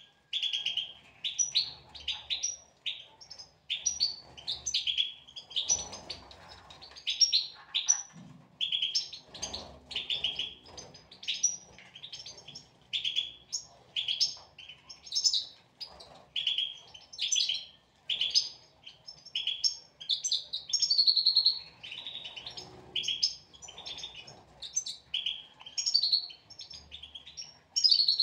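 European goldfinches twittering and calling: a dense, continuous run of short, quick chirps from several birds, with a few faint low rustles underneath.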